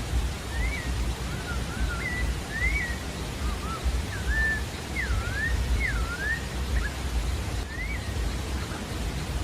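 Creamy-bellied thrush (sabiá-da-várzea) singing a string of short whistled phrases, each note slurring up and down, over a steady rushing background noise with a low rumble.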